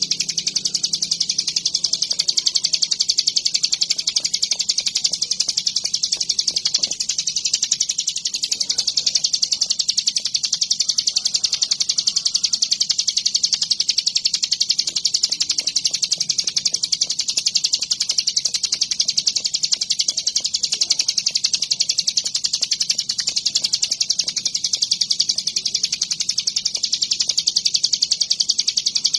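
Ciblek gunung (a prinia) singing a continuous, high-pitched, very rapid trilling song with no break.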